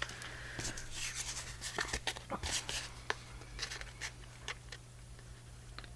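Paper and small craft tools being handled: scattered light clicks, taps and paper rustles over a steady low hum.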